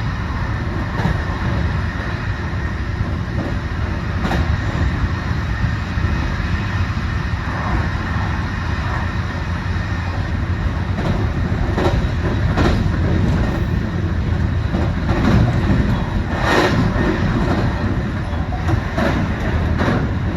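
Electric passenger train running at speed, heard from inside the carriage: a steady rumble of wheels on rail, with irregular clacks as the wheels pass over rail joints.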